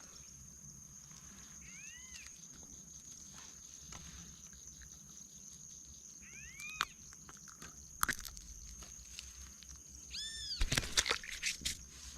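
Outdoor animal sounds: three short calls, each a quick rise and fall in pitch, about two, seven and ten seconds in, over a steady high-pitched hum. A few sharp clicks come near the end.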